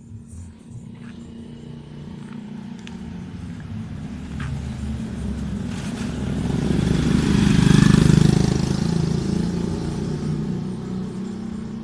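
Motorcycle engine running as it approaches and passes, getting steadily louder to a peak about eight seconds in and then fading.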